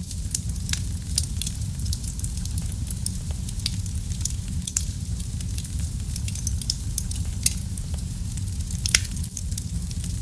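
Fireplace fire crackling: a steady low rumble of the flames with frequent sharp pops and snaps scattered irregularly, a couple of louder snaps in the second half.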